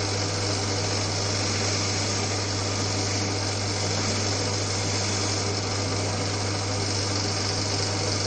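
Old Winfield metal lathe running under its electric motor while a somewhat dull tool takes a cut of a millimetre or two off a turned boss: a steady low hum with an even hiss of cutting over it. The motor does not sound bogged down by the cut.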